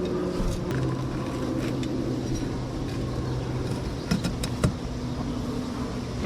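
A steady motor hum that drops a step in pitch a little under a second in, with a few short sharp clicks about four seconds in.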